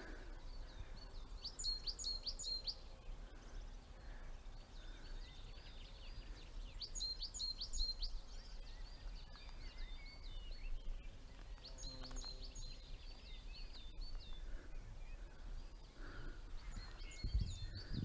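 A songbird singing faintly: repeated short phrases of quick high notes and trills, about every five seconds.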